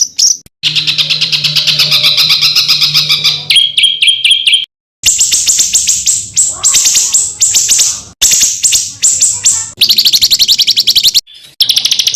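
Small songbirds singing rapid, high-pitched trills and strings of sharp repeated notes: short 'tembakan' (shot) phrases of the kind used to tutor competition songbirds. The phrases are spliced one after another, each cutting off abruptly, with brief gaps a little under 5 seconds in and near 11 seconds.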